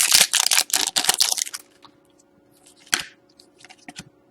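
Hockey trading cards and pack wrapper being handled: rapid rustling and crinkling for about a second and a half, then a few light clicks.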